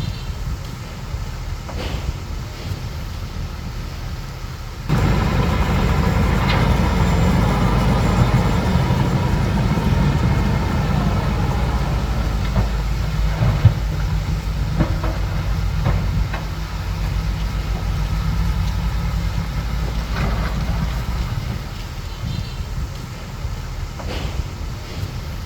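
Crawler bulldozer's diesel engine running with the clatter of its steel tracks, suddenly louder about five seconds in, with a sharp metallic clank about halfway through.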